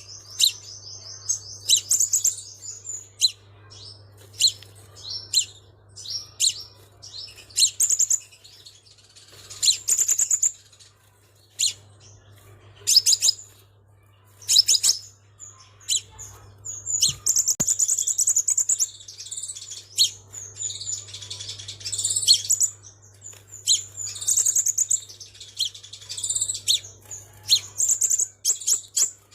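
Crimson sunbird calling: high, sharp chirps and short twittering trills, with gaps between them. Through the second half they run together into longer, faster bursts of twittering song.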